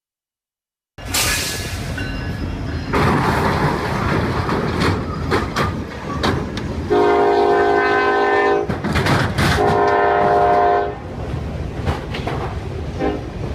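Train horn sounding two long blasts, each about a second and a half, over the running noise and clatter of a moving train.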